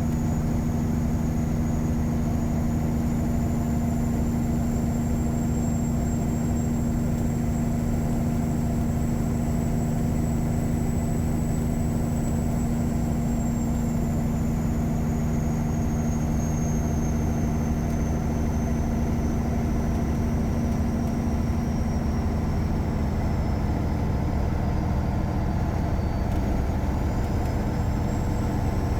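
Caterpillar 3406E inline-six diesel in a Freightliner Classic truck, tuned, running steadily with an even drone. A faint high whine slowly falls in pitch through the second half and rises again near the end.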